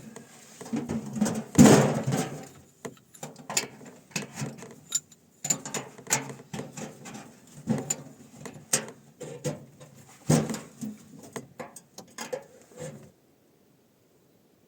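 A run of irregular knocks, clicks and rustling, like things being handled. The loudest knock comes about two seconds in, and the sound stops abruptly near the end.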